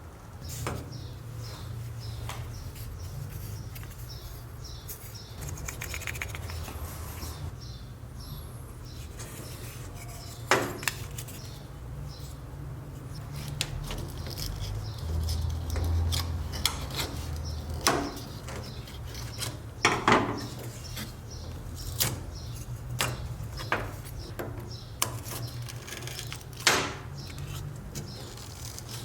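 Scattered metallic clinks and knocks of a rusty knife being handled and set down on a hard surface, over a low steady hum.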